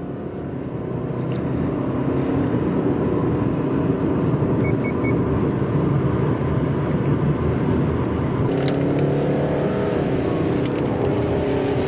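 Car engine and tyre noise from inside a moving car, growing louder over the first couple of seconds as it picks up speed. The engine note climbs again about eight and a half seconds in.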